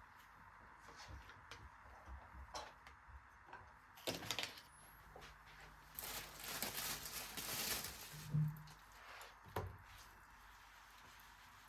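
Faint household handling sounds: scattered light clicks and knocks, with a short scrape or rustle about four seconds in and a longer one from about six to eight seconds, followed by a brief dull thud.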